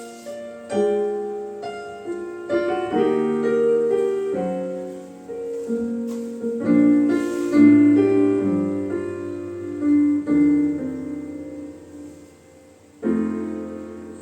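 Solo piano introduction of a recorded ballad, played back through a small full-range speaker driven by a class-D amplifier and picked up by a smartphone in the room: chords struck one after another and left to ring and fade.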